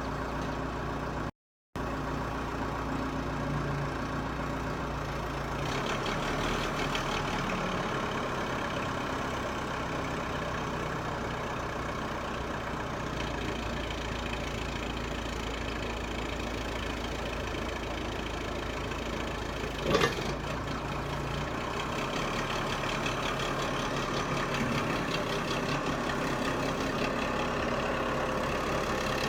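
Case 580 Super M backhoe's diesel engine running steadily, its note changing about six seconds in and again a little after twenty seconds. One sharp bang about twenty seconds in.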